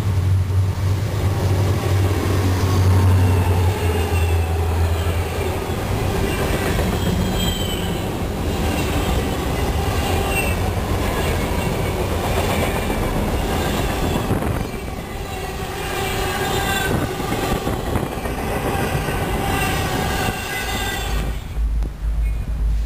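Diesel locomotive-hauled train passing: a low steady diesel engine drone for the first several seconds, then rolling cars with wheels squealing on the rails.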